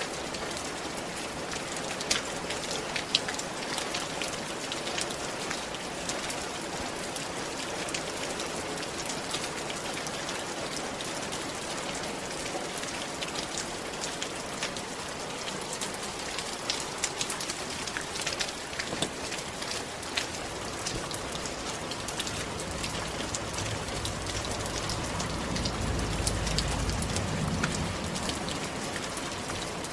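Steady rain falling on a roof, with many distinct drops ticking sharply over the hiss. A low rumble swells up in the second half and fades again near the end.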